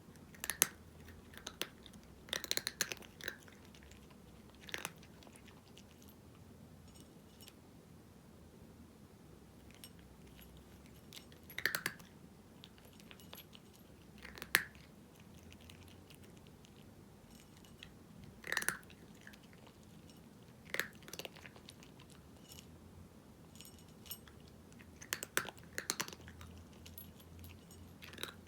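A cat crunching dry kibble, with short clusters of crisp bites separated by pauses of a few seconds.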